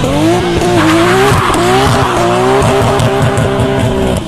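Nissan Skyline R34 GT-R's twin-turbo straight-six revving, its pitch climbing at first and then held high. From about a second in, tyres spin and squeal on the road, as in a burnout.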